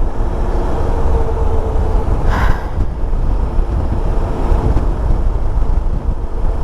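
Motorcycle riding at a steady pace: a steady engine note under heavy, low wind rush over the rider's microphone, with a brief hiss about two and a half seconds in.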